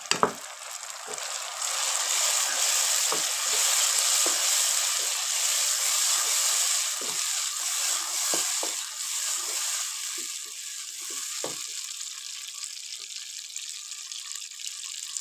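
Tomato purée sizzling in hot ghee with fried onions in a pan, with scattered clicks of a wooden spatula stirring it. The sizzle is loudest at first and eases off after about ten seconds.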